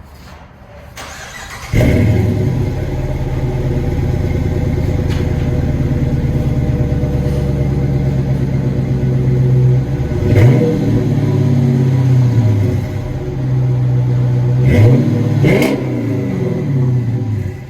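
2017 Chrysler 300 S 5.7-litre HEMI V8 running through Flowmaster 40 series mufflers on 2.5-inch pipes. It starts about two seconds in and settles into a steady idle. It is revved once about ten seconds in and blipped twice more near the end.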